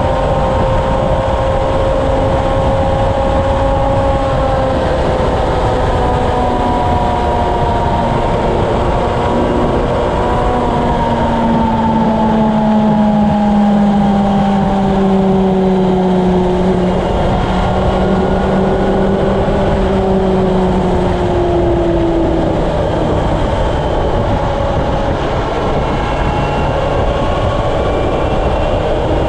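Honda CB750's inline-four engine running at highway speed under heavy wind noise on the camera microphone. The engine's pitch sinks slowly through the middle as the bike eases off, then holds steady.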